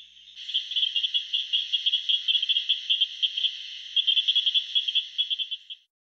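Southern cricket frog calling: a fast series of sharp clicks, starting about half a second in and stopping shortly before the end.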